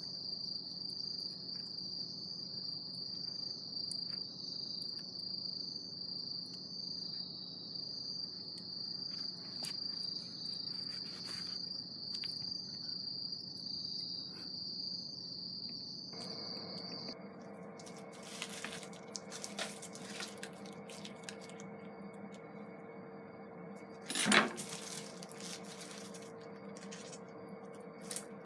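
An insect trilling steadily in a high, slightly pulsing tone that stops about 17 seconds in. After that comes a steady low hum with scattered clicks and one sharp clatter about 24 seconds in.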